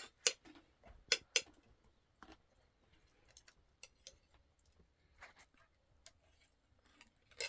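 Spoons and dishes clinking as people eat: a few sharp clinks in the first couple of seconds, then only sparse faint taps.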